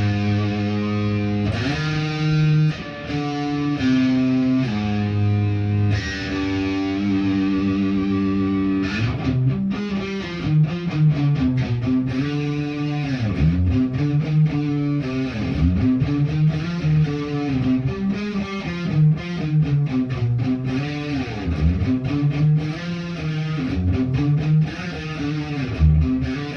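Guitar being played: held notes and chords for the first several seconds, then quicker picked notes from about nine seconds in.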